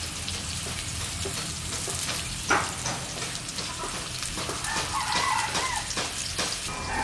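Potatoes and spices frying in hot mustard oil in a kadai, sizzling and crackling steadily as they are stirred, with one sharp knock of the spatula on the pan about two and a half seconds in. From about halfway, a chicken clucks in the background.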